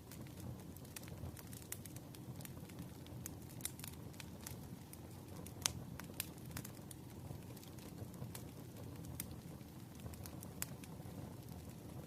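Wood fire crackling: irregular sharp pops and snaps, one louder pop a little past the middle, over a steady low rumble.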